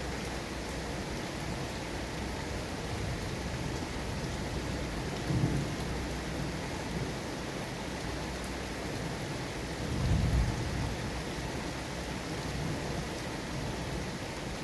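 Steady heavy rain falling, an even hiss, with two brief low rumbles about five seconds in and about ten seconds in.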